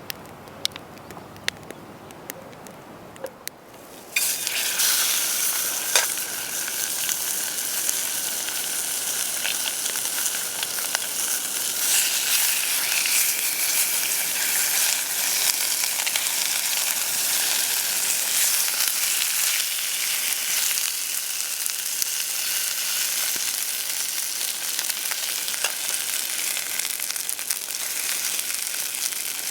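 A few light clicks, then about four seconds in, food goes into a hot oiled pan and starts frying with a loud, steady sizzle.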